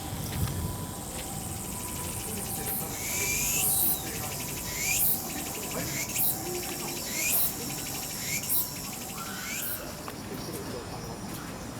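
A bird giving a series of about six short, sharply rising high calls, roughly one a second, over a steady insect-like background buzz.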